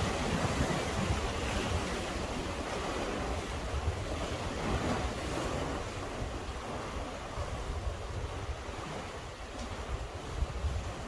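Sea swell washing against a breakwater, with wind buffeting the microphone in low rumbles; the wash surges and eases, fuller in the first half.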